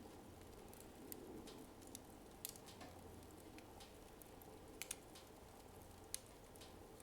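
Wood fire in a fireplace burning low, giving off faint, occasional sharp crackles, about half a dozen in a few seconds, over a quiet steady hiss.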